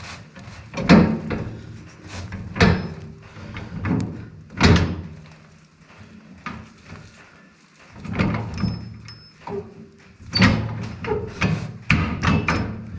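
Irregular metal knocks and clanks as a new bolt is worked and pushed through the brush cutter's bracket and spacer, the parts being shifted and straightened, with a quieter lull in the middle.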